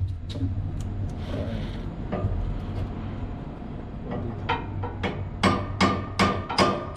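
Hammer blows on metal, starting about four and a half seconds in and coming about two and a half a second, each ringing briefly: tapping a 7.5 kW motor into place for alignment.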